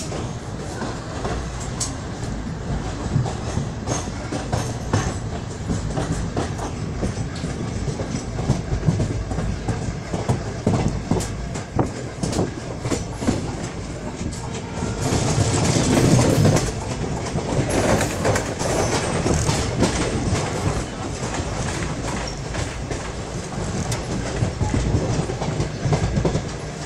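Indian Railways express train moving out of a station, heard from an open coach door: a steady rumble with wheels clicking over rail joints. A louder rush of noise comes in about fifteen seconds in and lasts a couple of seconds.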